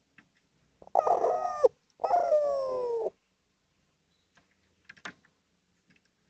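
Male spotted dove (derkuku) calling: two loud coos about a second apart, the second longer and gently falling in pitch, then a few faint clicks. A call that rival doves answer.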